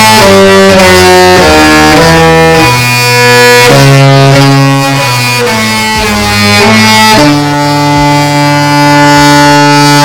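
The Disney Magic's musical ship horn playing a tune. It sounds a stack of loud horn notes that step from one pitch to the next every half second or so, then holds a long chord for the last few seconds.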